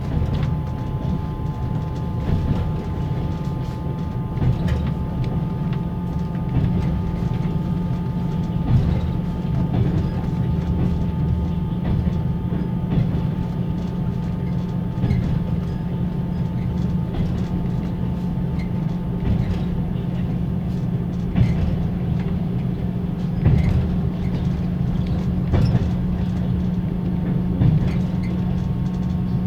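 Passenger coach heard from inside a closed sleeping compartment: the car's axle-driven generator whines steadily over a low rumble, with wheels knocking now and then over rail joints.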